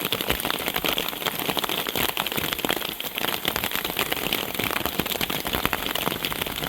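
Rain falling steadily, a dense patter of close drop hits on a surface over a steady hiss.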